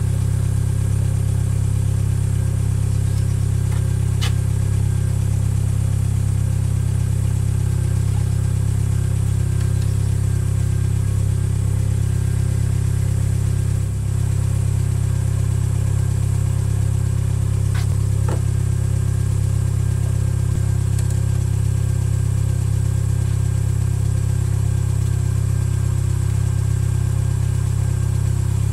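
A car engine idling steadily, with a few faint clicks over it.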